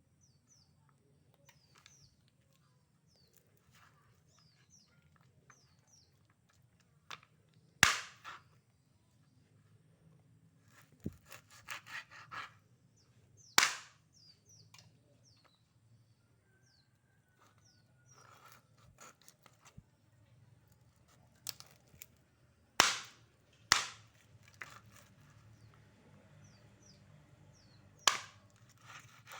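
A handful of sharp, loud knocks spaced several seconds apart, with runs of faint, short, high chirps from small birds between them.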